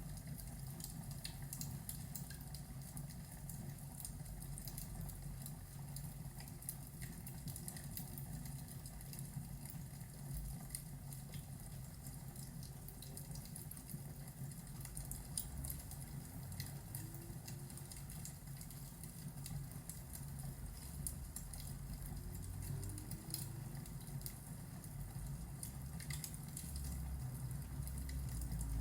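Fireplace and thunderstorm ambience: a fire crackling with scattered small pops over a steady low rumble with rain patter, the rumble swelling near the end.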